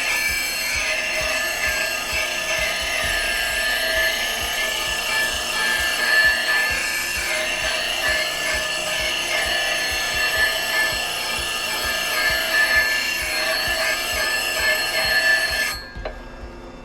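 Woodturning gouge being sharpened on a grinder: steady grinding of tool steel against the wheel, with a constant high ringing tone, the tool kept turning so the edge does not burn. The grinding stops abruptly about a second before the end.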